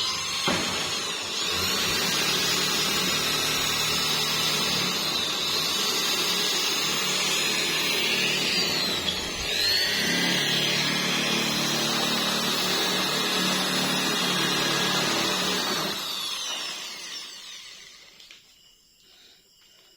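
Electric power tool running steadily under load, with a short dip about halfway through, then winding down and stopping a few seconds before the end.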